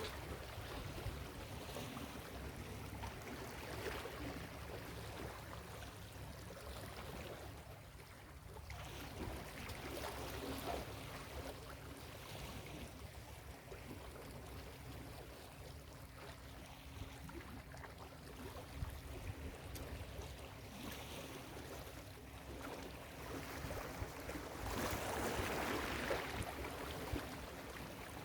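Ocean waves washing onto a beach: a steady rush of surf that swells and eases every few seconds, with the biggest surge near the end. A faint steady low hum runs underneath for the second half.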